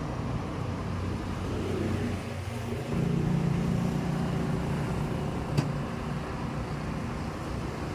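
An engine running steadily; its note shifts and gets louder about three seconds in. A single sharp click a little past halfway.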